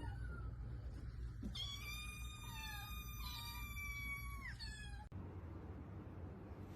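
A cat meowing: a short call at the start, then one long, high-pitched, drawn-out meow from about a second and a half in, lasting about three seconds.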